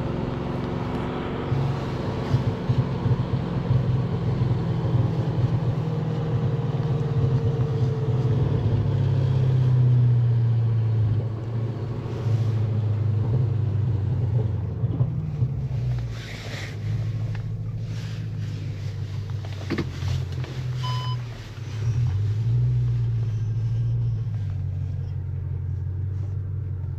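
Tuned Audi S6 engine and exhaust droning at low revs while the car drives slowly, the drone swelling and easing a few times with the throttle. A short high beep sounds once, about three quarters of the way through.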